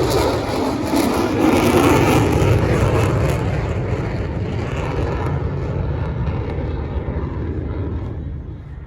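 Jet noise of an F-35A Lightning II flying past, loud at first and fading steadily as it moves away; the high hiss dies out about halfway through.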